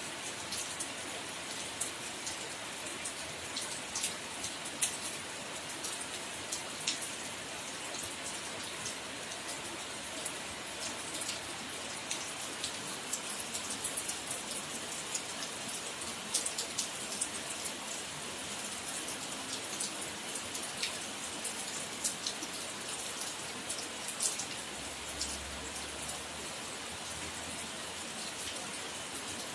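Steady rain falling, with many single drops striking close by as sharp irregular ticks over an even hiss.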